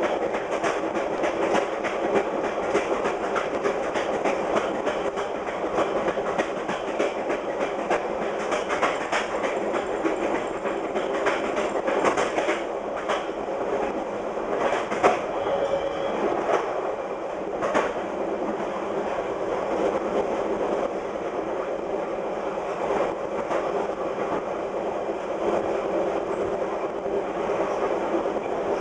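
Passenger train running fast over jointed rail, heard from the rear of the last car: steady rolling noise with a continuous clickety-clack as the wheels strike the rail joints, and a few louder clacks along the way.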